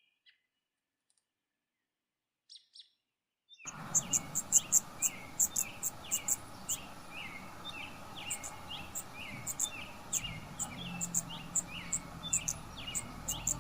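Near silence for about three and a half seconds, then a small bird chirping: short, quick chirps repeated about three a second over a faint hiss, running on to the end.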